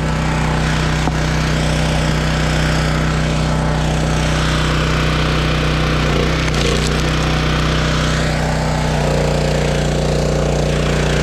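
Small engine of a 12-ton engine-driven hydraulic log splitter running steadily, its pitch dipping briefly about six seconds in as it takes load, with a few sharp cracks of chestnut wood being split.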